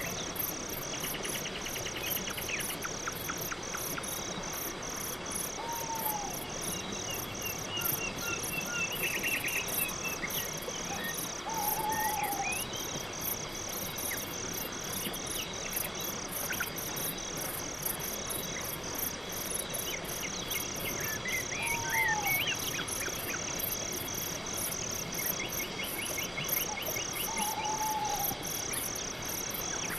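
Night forest ambience: crickets chirping in a steady, even rhythm throughout, with a few short trills and chirps from other animals and four brief lower calls.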